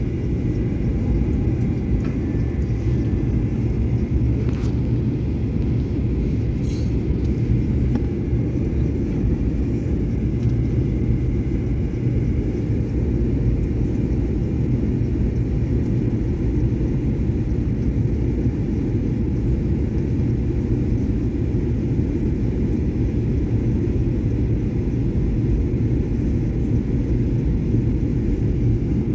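Steady jet-airliner cabin noise in flight: the even low rumble of the engines and the airflow past the fuselage of a Boeing 737-800, with a few faint clicks in the first several seconds.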